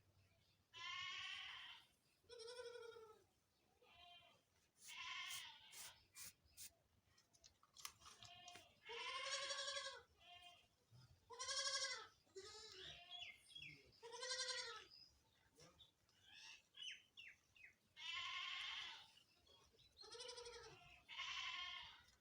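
A long series of wavering, bleat-like animal calls, each about a second long and separated by short pauses, with a few brief clicks in between.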